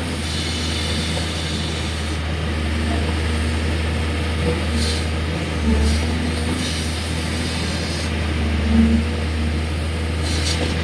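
Excavator's diesel engine running steadily with a low drone, with a few brief hisses along the way.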